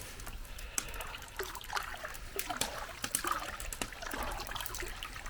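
Water trickling and splashing in a wood-fired outdoor bathtub, with many small irregular splashes.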